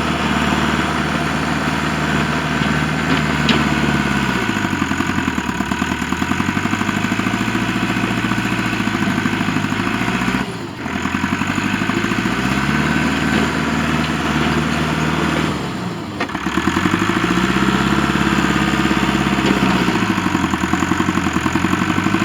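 Engine of a heavy digging machine running steadily, its pitch sagging under load and recovering three times as it digs around the tree roots.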